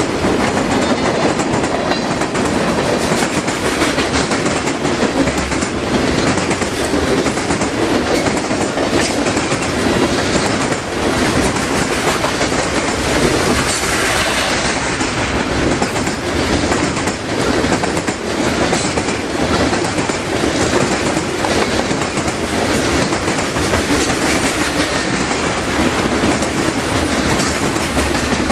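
Freight train cars rolling past close by, a steady loud rush of wheels on rail with repeated clacks from the wheels passing over the rail joints.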